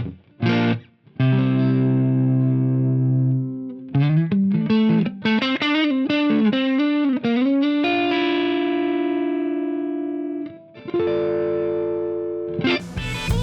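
Electric guitar played through a Wampler Ego 76 mini compressor pedal: a long-sustained chord, a quick run of single notes, a long held note, then another chord and busier strumming near the end.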